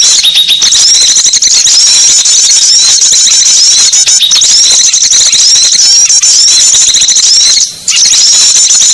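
Bird-lure recording of small songbirds: dense, rapid high-pitched chirping and twittering with no let-up, broken only briefly near the end.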